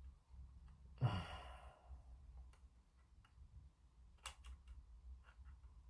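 A short sigh about a second in, then a few faint, light clicks of small plastic model-kit parts being handled and tried in place, the sharpest just past four seconds.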